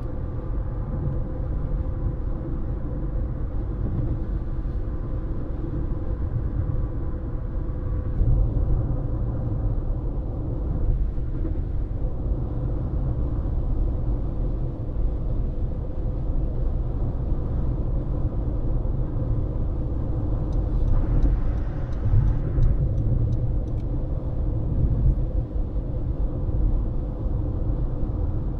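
Road noise of a car driving at speed: a steady low rumble of tyres and engine with a faint constant hum. About 21 seconds in there is a short run of rapid light ticks.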